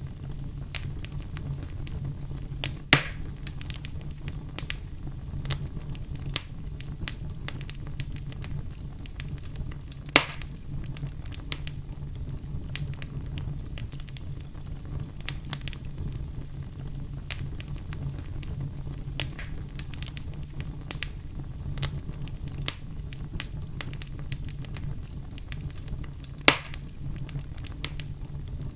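Wood fire crackling in a fireplace: a steady low rumble of flames under frequent sharp crackles, with three louder pops, about three seconds in, about ten seconds in and near the end.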